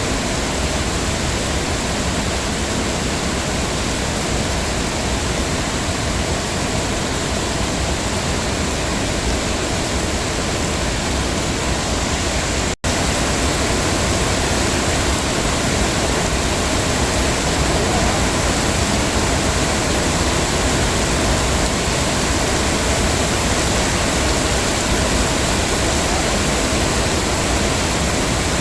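Heavy rain falling steadily, a dense even hiss. It cuts out for an instant about halfway through, then carries on slightly louder.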